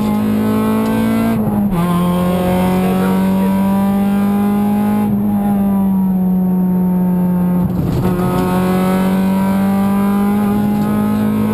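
Honda Civic VTi rally car's 1.6-litre VTEC four-cylinder engine running hard at high revs, heard from inside the cabin. The pitch drops sharply with an upshift about a second and a half in, then rises and falls with the throttle, breaking briefly near eight seconds before climbing again.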